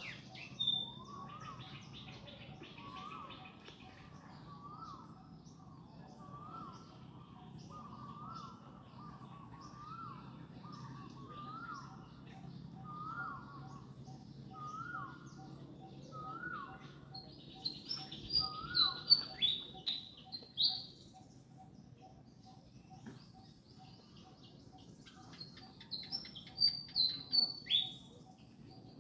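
Birds calling. One bird repeats a short rising-and-falling call about once a second for the first twenty seconds, and louder, high chirping breaks in twice, around eighteen seconds and again near the end.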